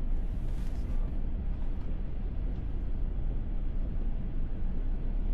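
Steady low road and tyre rumble of a Tesla Model S driving uphill, heard from inside the cabin, with no engine note.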